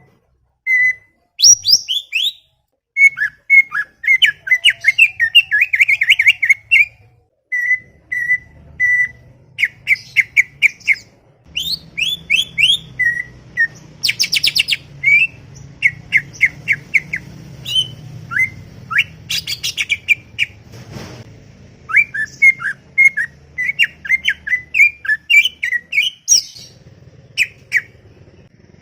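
Cucak ijo (green leafbird) singing a fast, chattering string of short whistled notes and downslurred chips, with a brief rapid trill about halfway through.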